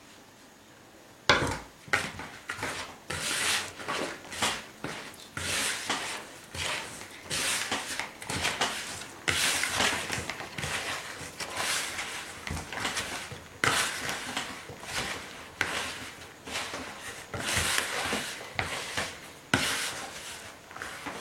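Hands kneading and rubbing a crumbly shortbread-type dough in a bowl, working in added melted butter: irregular rustling, scraping strokes about once or twice a second, starting about a second in.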